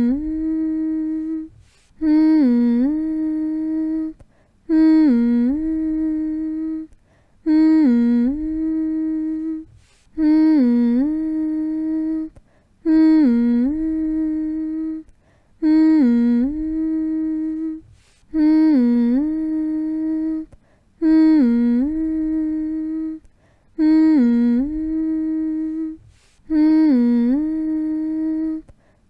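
A person humming one phrase over and over, as a soothing hum to lull a baby to sleep. Each phrase is a held note that dips down and back up in the middle, about two seconds long, followed by a short breath pause, repeating roughly every two and a half seconds.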